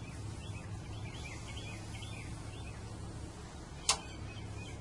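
Small birds chirping again and again over a steady low hum of outdoor background noise, with one sharp click about four seconds in.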